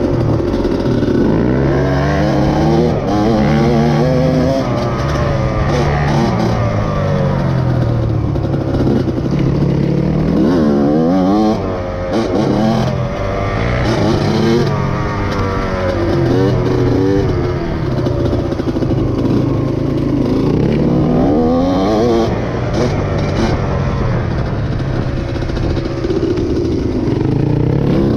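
Dirt bike engine being ridden hard, the revs climbing and dropping again and again as the rider accelerates, shifts and backs off.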